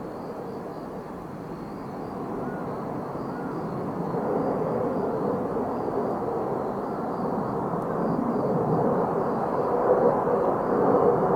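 Jet aircraft engine noise, a rushing roar that grows steadily louder as the jet approaches.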